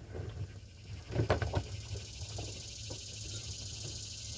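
A few light clicks and knocks, as of hand tools or car parts being handled, over a steady low hum.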